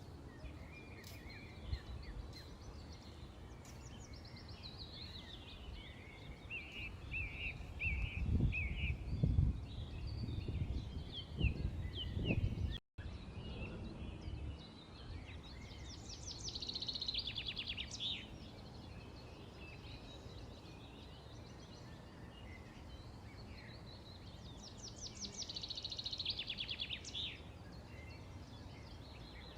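Small birds chirping and twittering, with two bursts of fast trilling past the middle and near the end. A loud low rumble swells from about a quarter of the way in to just before the middle, then the sound drops out for an instant.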